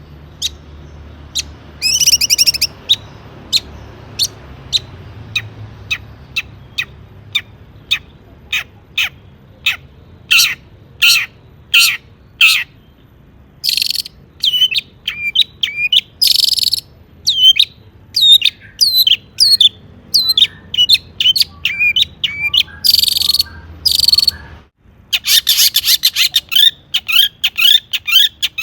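Long-tailed shrike singing: sharp clipped notes at about two a second that quicken into a varied, rapid chatter with buzzy trills, the song studded with mimicked calls of other birds. A brief gap comes near the end, followed by a dense burst of fast notes.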